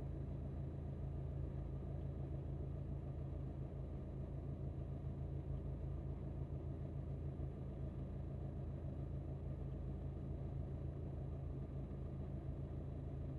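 Steady low hum of an Alfa Romeo MiTo's engine and road noise, heard from inside the car.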